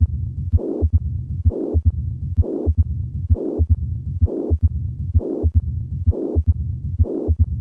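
Recorded heart sounds of calcific mitral stenosis: a low diastolic rumbling murmur repeating with each beat, about one beat every 0.9 seconds. In calcific mitral stenosis the opening snap and loud first heart sound can be lost from leaflet immobility, while the murmur remains.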